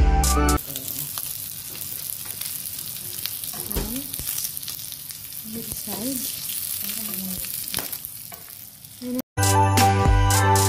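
Pork strips sizzling and frying in a ridged grill pan, a steady hiss with a few light clicks of metal tongs as the strips are turned. Background music plays briefly at the start, then returns near the end after a short gap.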